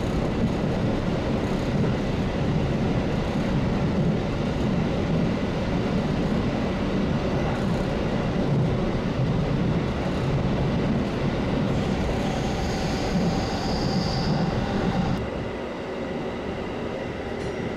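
Limited express electric train running at speed through a long tunnel, heard from just behind the cab: steady running noise of wheels on rail, with a faint high whine for a few seconds past the middle.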